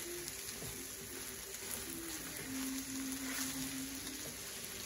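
Pork fried rice sizzling in a stainless steel skillet as it is stirred and turned with a spatula.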